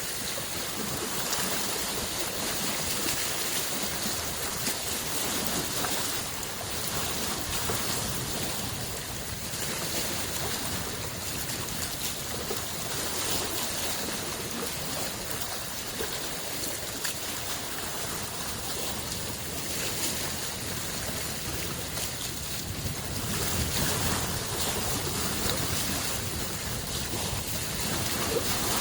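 Small freshwater lake waves washing steadily onto the shore, a continuous rush of water that swells louder in the last few seconds.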